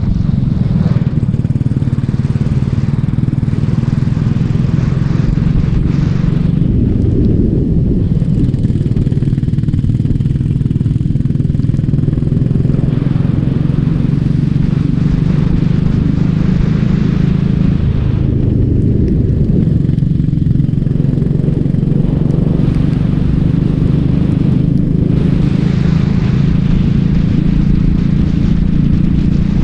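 Racing kart engine running hard on track, a steady, loud drone that holds its pitch. The hiss above the engine fades twice, about a quarter and two-thirds of the way through.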